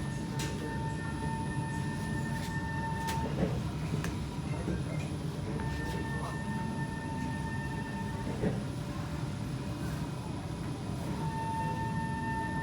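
Kawasaki C151 MRT train running between stations, heard from inside the car: a steady low rumble of wheels and running gear. A thin, steady high whine sounds for a few seconds at a time, three times over.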